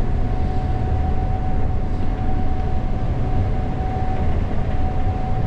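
Gleaner S98 combine running under load while harvesting corn, heard from the operator's position: a steady low machine drone with a thin, steady whine above it that dips briefly a little past the middle.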